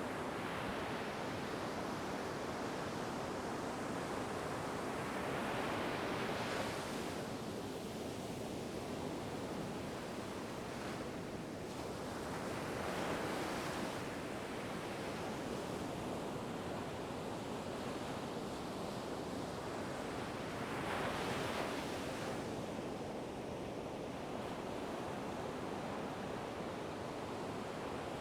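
Ocean waves surging onto the shore in a continuous hiss of surf, with three bigger waves swelling and breaking, roughly seven or eight seconds apart.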